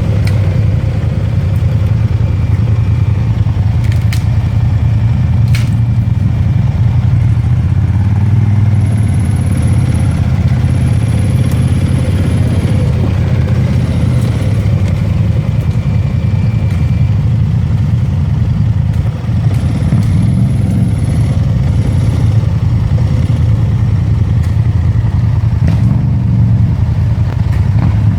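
ATV engine running steadily while riding off-road, with a few sharp knocks and some clatter from the machine over rough ground.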